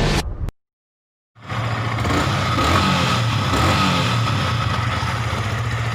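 Motorcycle engine running steadily, starting abruptly about a second and a half in after a short silence, with a noisy rush over it.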